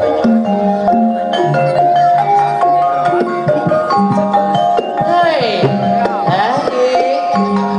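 Javanese gamelan accompaniment for ebeg: struck mallet instruments play a melody while kendang hand drums keep the rhythm. About five seconds in, a singer's sliding voice joins, and it comes back briefly near the end.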